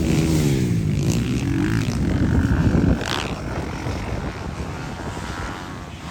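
Motocross bikes racing, their engines revving up and down. It is loudest over the first three seconds, then a little fainter.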